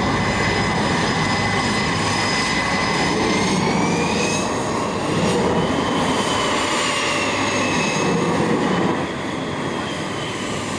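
Aircraft engine running, with a high whine that climbs in pitch about three seconds in and eases back down near the end, over a steady roar.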